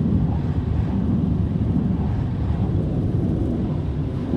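Steady low rumbling roar, even throughout with no distinct events.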